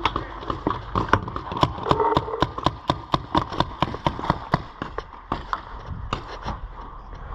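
Paintball markers firing: rapid, irregular sharp pops, several a second and overlapping from more than one gun, thinning out over the last couple of seconds.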